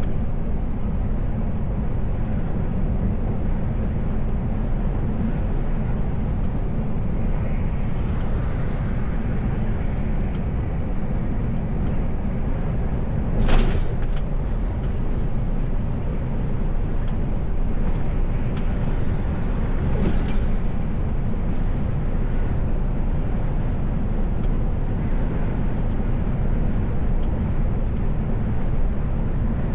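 Steady low drone of a Mercedes Actros L truck's engine and tyres heard from inside the cab while driving. Two brief sharp sounds cut through it, about 13 and 20 seconds in.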